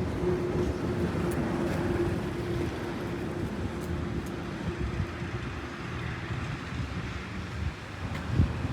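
Vehicle running: a 2013 Toyota Prius hybrid, with a steady low rumble, wind noise and a faint steady hum.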